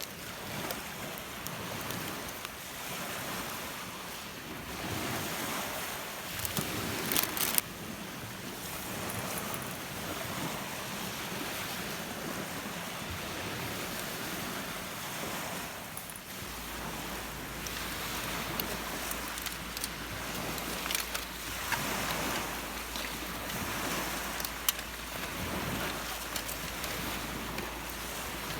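Wind-driven waves on Lake Biwa breaking and washing on the beach in a steady, swelling rush, with wind on the microphone. A few sharp clicks cut through around a quarter of the way in and again near the end.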